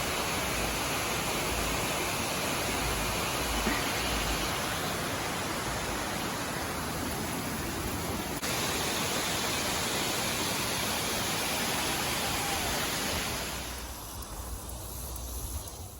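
Steady rushing of water from a small waterfall, an even hiss across all pitches that falls away sharply near the end.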